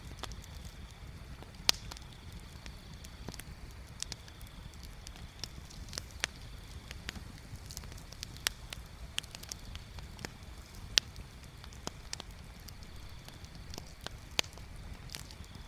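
Wood bonfire crackling, with sharp irregular pops and snaps over a low steady rumble; the loudest pops come about two seconds in and again past the ten-second mark.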